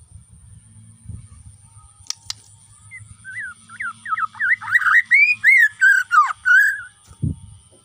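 Bornean shama (murai batu) singing one phrase of rapid, varied whistled notes that starts about three seconds in and stops about a second before the end. A faint low hum runs underneath, and a dull thump comes just after the song.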